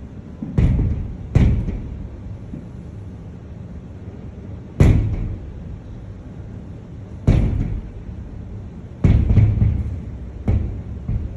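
Aerial firework shells bursting: about six sharp booms at irregular intervals, each trailing off in a low rumble.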